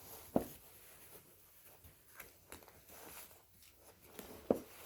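Faint handling noises: light rustling and small ticks, with two soft knocks, one about half a second in and one near the end.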